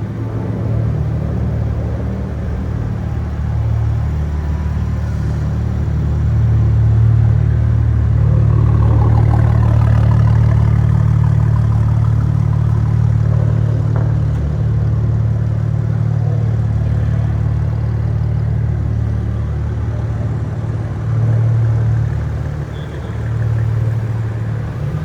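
A car engine running with a steady low rumble. It swells about six seconds in and stays loud, then dips briefly twice near the end.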